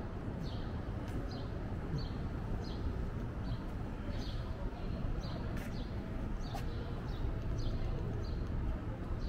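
A small bird chirping over and over, short calls about one or two a second, over a steady low city rumble.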